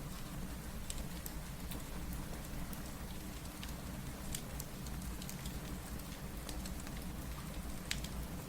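Steady rain mixed with fireplace crackle: a continuous hiss of rainfall broken by scattered sharp pops, the clearest about eight seconds in.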